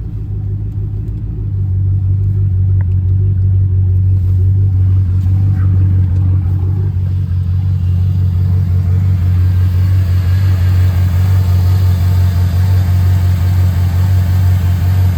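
Chevy truck's V8 engine idling steadily with a low, even hum, getting louder about a second and a half in and then holding steady.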